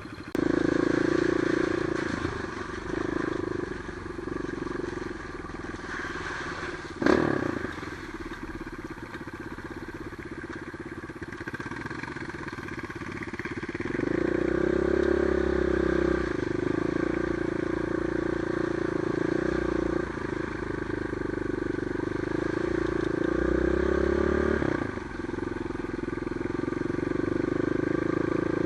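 Trail motorcycle engine running as it is ridden, its note rising and falling with the throttle and getting louder about halfway through. A single sharp knock stands out about seven seconds in.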